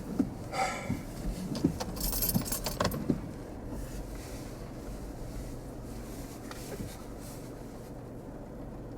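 Steady low hum of a car's cabin, with a few clicks and rattles and a short burst of hiss in the first three seconds, which then settles to the hum alone.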